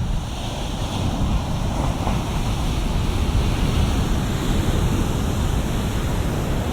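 Waves breaking and washing up the shore, a continuous rush of surf recorded binaurally, with wind buffeting the microphone.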